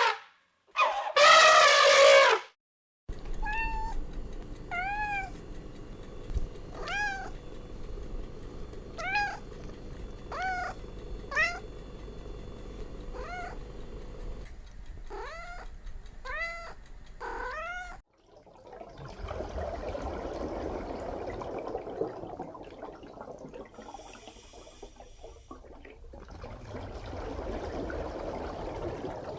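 A cat meowing over and over, about a dozen short, high meows roughly a second apart, each rising and falling in pitch. A loud, drawn-out call comes just before them, and a rough, noisy stretch follows with no clear meows.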